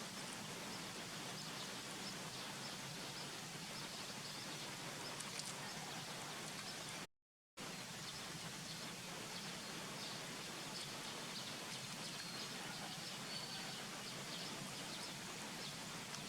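Outdoor forest ambience: a steady background hiss with faint, scattered high chirps and ticks. It is broken by a half-second gap of dead silence about seven seconds in.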